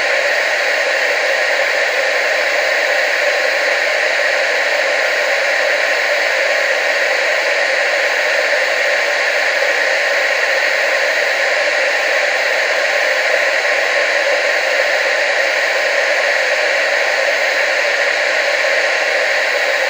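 Television static: a steady hiss, strongest in the middle and upper range with almost no bass, never changing.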